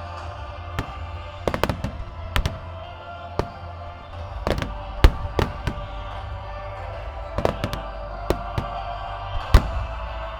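Fireworks bursting in irregular bangs and crackles, with the loudest bang about five seconds in and another near the end, over music.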